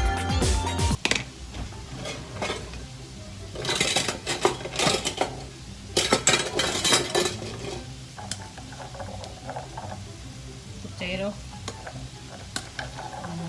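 A metal utensil stirring and scraping food in a frying pan, clattering in two bunches of rapid strokes, over a faint sizzle of frying. Music cuts off about a second in.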